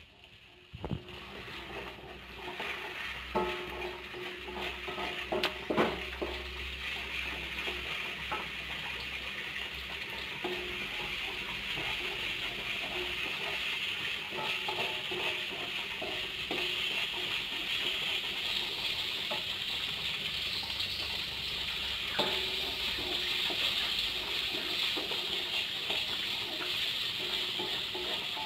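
Sliced shallots and garlic with bay leaves sizzling in hot oil in a wok, the sizzle building over the first several seconds. A wooden spatula stirs them, scraping and now and then knocking against the pan.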